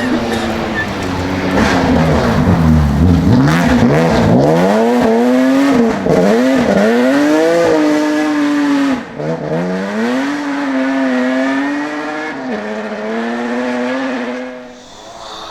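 Rally car engine at full throttle on a stage, the revs climbing and then dropping sharply at each of several gear changes, with the sound fading away near the end.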